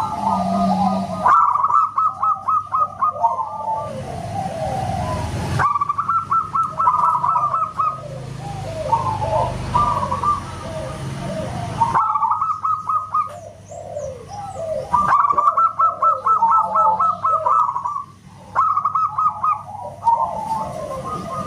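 Zebra doves (perkutut) singing: fast trilled coo phrases and falling coo notes from several birds overlapping, with the recording cutting abruptly from one passage to the next.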